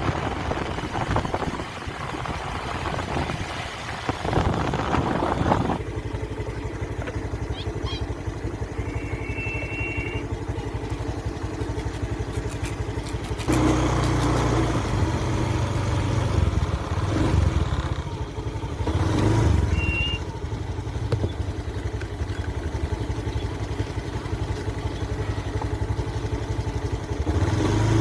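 A steady low engine rumble, like a motor vehicle running, that changes abruptly about six seconds in and again at about fourteen seconds. A few brief high chirps sound over it.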